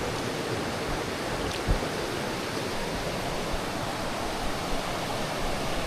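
Steady rush of a fast jungle river flowing over rapids. One short low thump comes about a second and a half in.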